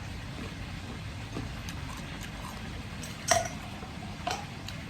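Cutlery clicking against a plate while food is served: scattered light clicks, with two sharper ringing clinks about a second apart in the second half.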